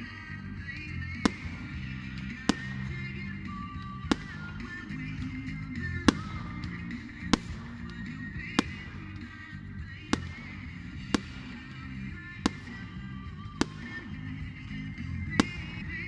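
Music playing under a string of sharp firework bangs, evenly spaced about one every second and a bit.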